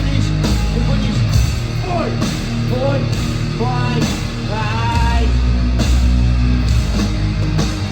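A rock band playing live, with a dense, heavy low end, and a singing voice gliding over it in stretches.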